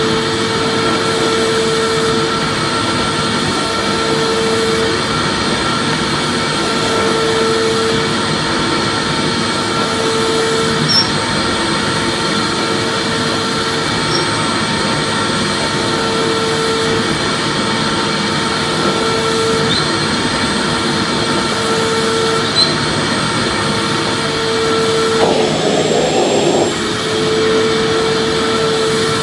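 Vacuum cleaner running steadily: a constant rush of air with an even hum and whine, which waver briefly about 25 seconds in.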